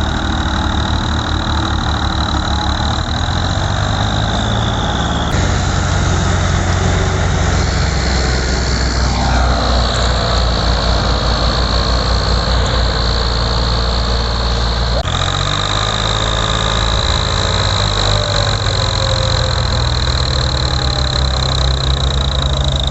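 Tractor diesel engines running hard under load as a New Holland Ghazi strains to push a stuck, loaded sugarcane trolley. The engine note changes abruptly about five seconds in and again near two-thirds of the way through, and a steady high tone runs over it.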